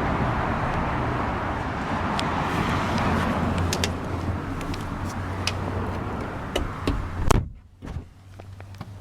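Outdoor traffic noise with a few small clicks, then the Lamborghini Gallardo's door shuts with a loud thud about seven seconds in. After that the sound is suddenly much quieter and muffled, as heard from inside the closed cabin.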